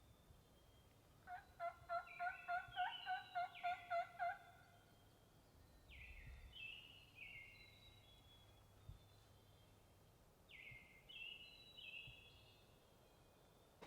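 A turkey gobble: a rattling run of about a dozen quick notes lasting around three seconds. Songbirds sing short downward-sliding phrases several times around it.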